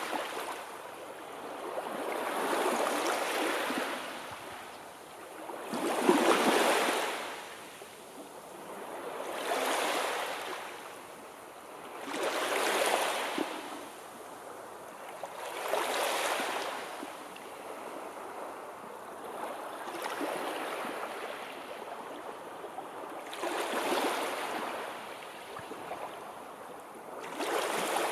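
Sea waves washing in and drawing back in slow, regular swells of surf, one about every three to four seconds, the strongest about six seconds in.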